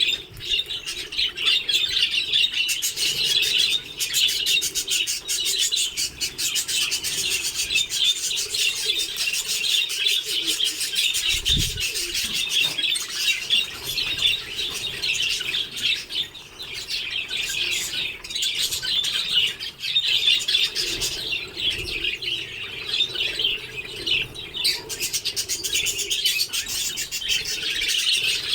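A colony of budgerigars chattering and warbling continuously, a dense mass of rapid overlapping chirps. A brief low thud comes about halfway through.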